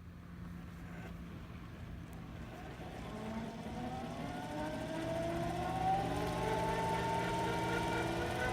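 Radio-controlled scale AgustaWestland AW139 helicopter spooling up: a steady low hum, then from about three seconds in several whining tones that rise slowly in pitch and grow louder.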